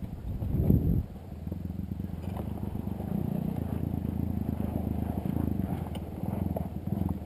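Dirt bike engine running at a low, steady idle with even firing pulses, with a brief louder burst just before a second in.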